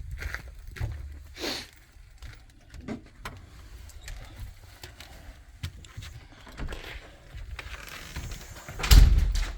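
Scattered clicks and knocks with a low rumble, and one loud thump near the end.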